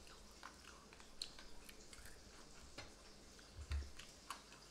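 A person chewing crunchy battered, deep-fried yellow bass, fins and small bones included, with faint crisp crackles scattered throughout. A low thump comes about three and a half seconds in.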